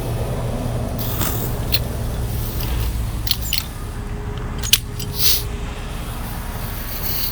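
Heavy truck's diesel engine running steadily at idle, with a few short clicks and brief hisses over it.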